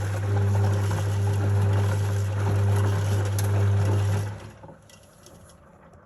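Izola Superautomatic 750 S washing machine running, its motor giving a steady hum over the churning of the tumbling load. The motor stops suddenly about four seconds in, leaving a quiet pause with a few faint clicks, as in the stop-start rotation of a wash cycle.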